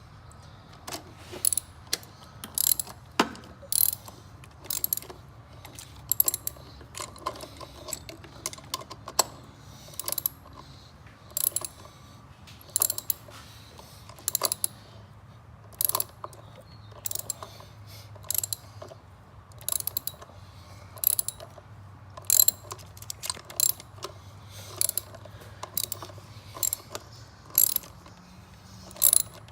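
Hand ratchet wrench clicking in short repeated back-strokes, a quick burst of pawl clicks about every second, as a fastener is tightened down in a tight spot in the engine bay.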